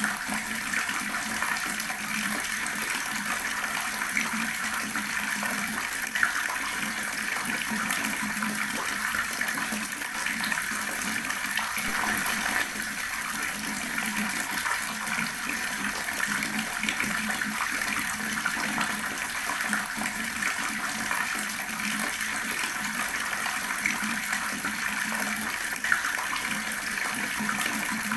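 Water running steadily from an open tap, splashing onto the surface below, with a couple of slightly louder splashes.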